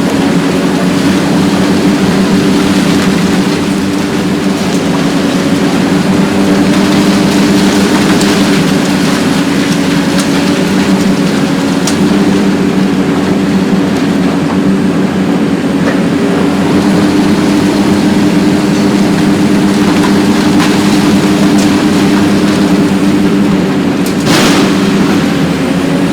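Diesel engine of a Hitachi ZX 870-3 demolition excavator running steadily under load, with a few sharp cracks of breaking material, the loudest near the end.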